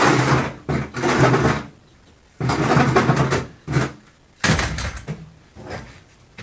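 Power saw with a metal-cutting blade cutting through refrigerator sheet metal in short stop-start bursts, the motor running at a steady pitch, then a sudden loud metallic clatter about four and a half seconds in.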